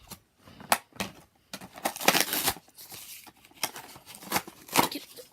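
Toy packaging being opened by hand: a run of crinkles, clicks and rustles of plastic and cardboard, with a longer tearing rustle about two seconds in.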